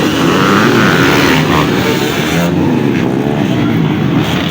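Several dirt bike engines revving, their pitch rising and falling and overlapping.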